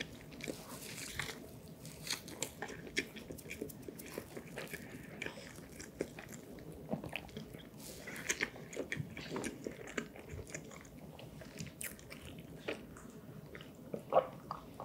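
Close-miked chewing and wet mouth clicks of someone eating soft cheese-filled castella sponge cake, a steady run of small smacks. Near the end, a few louder sounds as she sips milk from a glass.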